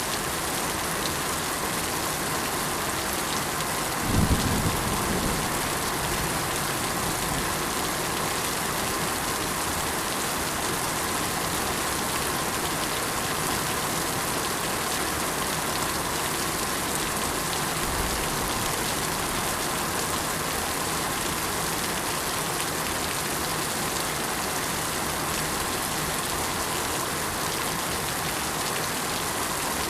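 Steady rain falling in a constant hiss. About four seconds in, a brief low rumble rises above it and fades within a second or two.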